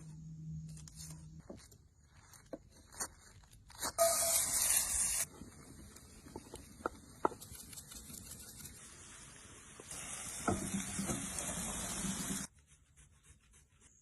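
Edited cooking sounds: scattered taps and knocks, a loud burst of noise about four seconds in, then a long hiss that grows louder about ten seconds in and cuts off suddenly, with food sizzling in a pan.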